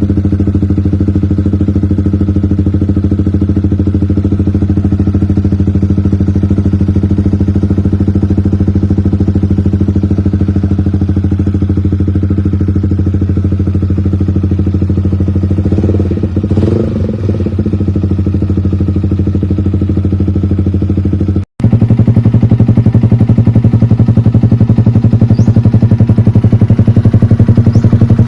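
Yamaha XSR 155's single-cylinder four-stroke engine idling steadily through an aftermarket muffler. About 21 seconds in, it cuts to another idling run, louder and slightly higher-pitched.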